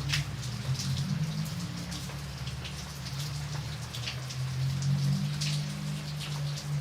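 Rain falling, with many separate drops tapping sharply on a surface several times a second, over a steady low rumble.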